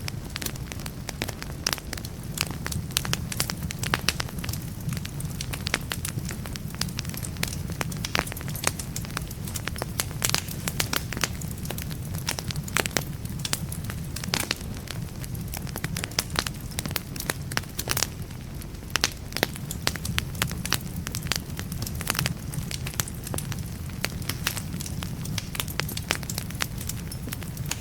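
Wood fire burning in a fireplace, with irregular sharp crackles and pops of burning logs over a steady low rumble.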